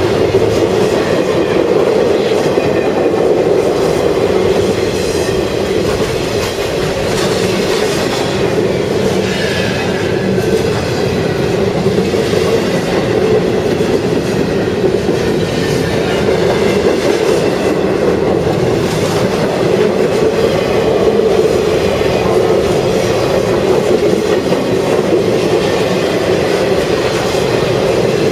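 Intermodal freight train cars rolling past, a steady loud rumble of wheels on rail with a rhythmic clickety-clack from the rail joints.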